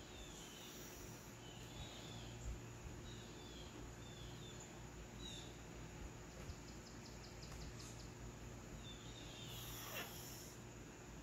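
Faint bird chirping outdoors: a short curved chirp repeated about once a second, with a brief quick run of ticks midway. Near the end comes a short rustle as a cat paws at the carpeted cat tree.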